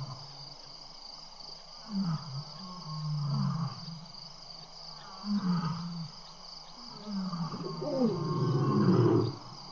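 Lions making short low growls and grunts, several calls in a row, with the longest and loudest one near the end.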